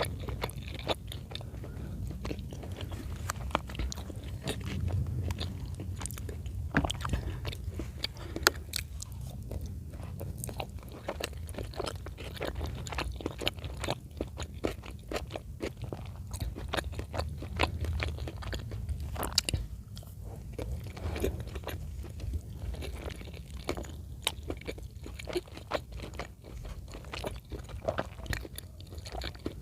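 Close-miked chewing of chicken in cream sauce: continuous wet chewing with many quick, irregular mouth clicks and bites over a low steady hum.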